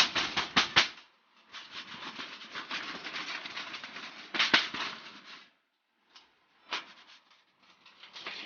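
Metal plates and frame of a folding Picogrill-style fire pit being handled: a quick run of clicks and clacks, then several seconds of rubbing and rustling with one sharp clack partway through, and a couple of lone clicks near the end.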